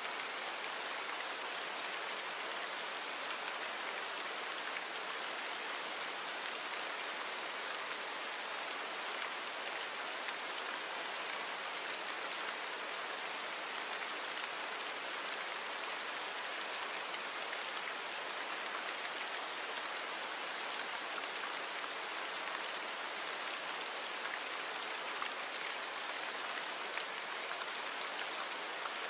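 Steady rain falling, an even hiss of rainfall with faint scattered drop ticks and no change in intensity.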